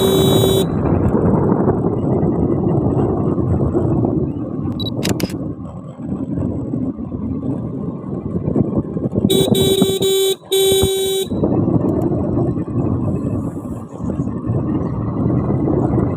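Riding noise from a moving motorcycle: a steady rush of wind and engine. A vehicle horn sounds briefly at the start, then two short honks about nine and a half seconds in.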